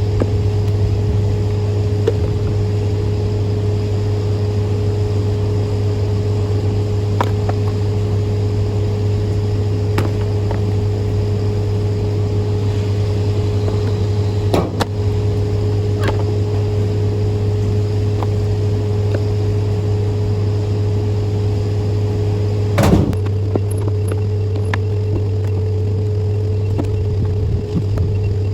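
Sawmill machinery running with a steady low drone and a constant hum. Scattered sharp knocks are heard, and one louder knock comes about three-quarters of the way through, typical of cut-off slabs coming down the chute.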